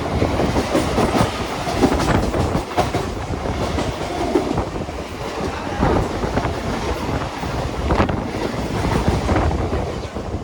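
Local passenger train running on the rails, its wheels giving a steady rumble scattered with irregular clicks and knocks over the track.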